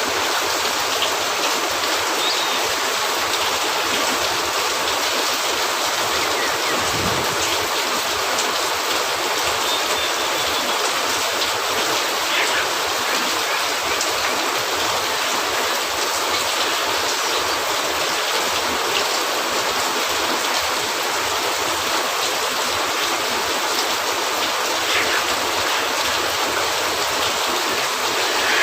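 Steady rain falling on a cabin roof, a constant even hiss, with a few faint pops from a crackling wood fire and one soft low thump about seven seconds in.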